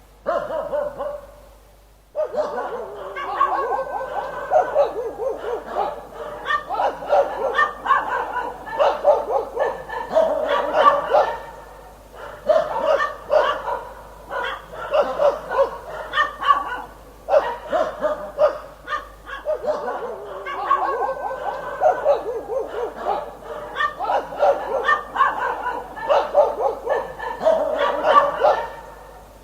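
Dog barking over and over in quick, dense runs of barks, with a short pause about a second in.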